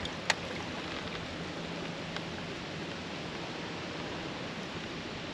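Steady rushing hiss of wind and moving river water, with a faint low hum underneath and one sharp click about a third of a second in.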